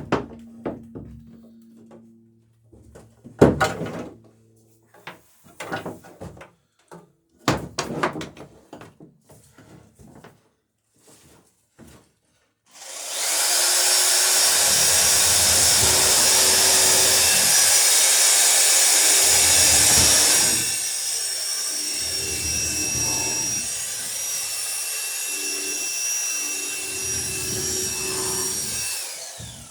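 A few scattered knocks and clatters, then about thirteen seconds in an electric drill starts and runs steadily with a whining motor for about sixteen seconds, boring through the overlapping wooden planks for rivet holes; its sound drops a little partway through.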